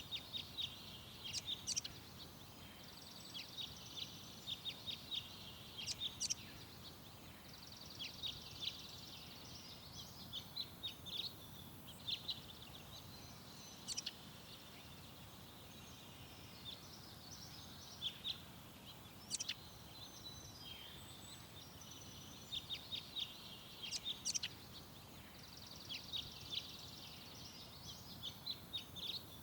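Small garden birds chirping and twittering in quick clusters of high calls every few seconds, over a faint steady background noise.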